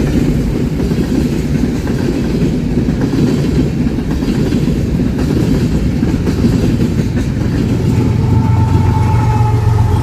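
Railroad cars rolling past, a steady heavy rumble with the clickety-clack of wheels over rail joints. Near the end a steady higher tone joins in.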